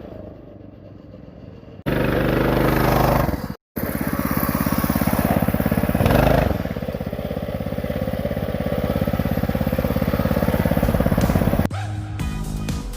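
A mini bike's 211cc single-cylinder engine running under throttle as the bike is ridden, with the pitch rising briefly about six seconds in. The sound jumps abruptly twice early on, and guitar music takes over near the end.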